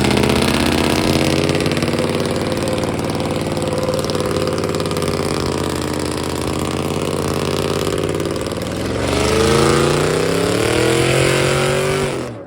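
Truck engine revved hard and held at high rpm, its pitch sagging slightly and then climbing again near the end before cutting off abruptly.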